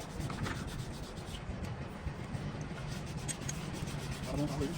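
Steady rubbing or scraping, with a few faint light clicks.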